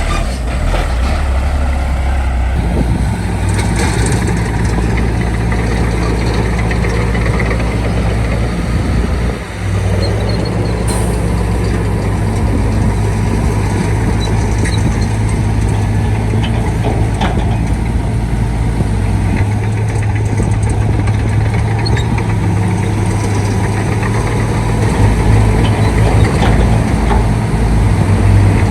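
Shantui D95 bulldozer's diesel engine running steadily as it works, its note shifting a few times, with a brief drop about nine seconds in and a louder stretch near the end.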